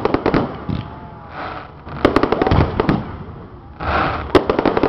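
Aerial fireworks shells bursting, with dense clusters of sharp crackling pops in three waves: near the start, about two seconds in, and again around four seconds in.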